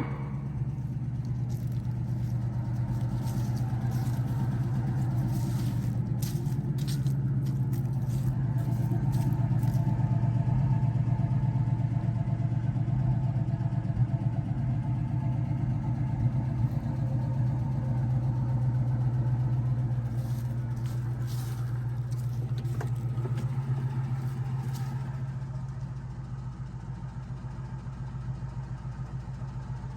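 Car engine running steadily, swelling louder a couple of times and easing off near the end, with a few light clicks over it.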